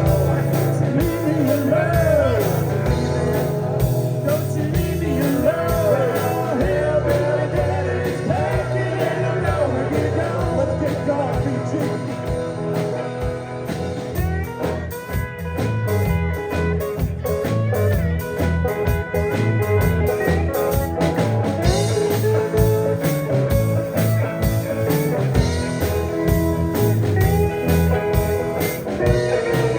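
A band plays a blues-rock instrumental break: a guitar lead with bending notes over bass and drums.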